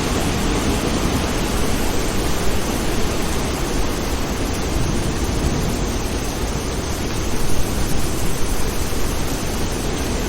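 Steady rain falling as an even hiss, over a low continuous rumble of distant thunder.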